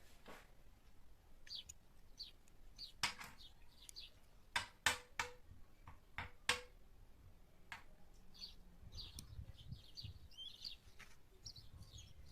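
About six sharp clinks, each with a short ring, in the middle of the stretch. Small birds chirp faintly before and after them.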